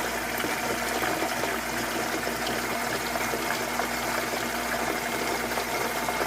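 Electric sump pump running steadily, a constant hum with water rushing as it draws the water in the pit down.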